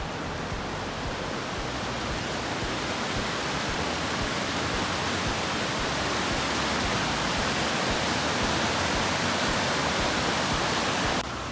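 Goldstream River's water rushing in a steady, even roar that grows slightly louder and cuts off abruptly near the end.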